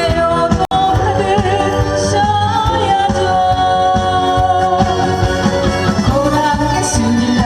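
A live trot song: a singer's voice carrying the melody over a backing track with a steady beat. The sound drops out for an instant less than a second in.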